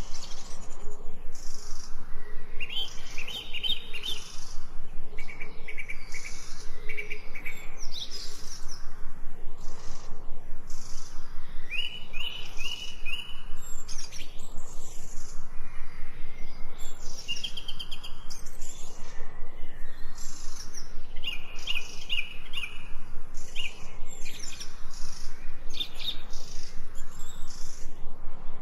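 Several birds chirping and singing in short, repeated phrases, over a fast, even ticking that goes on throughout.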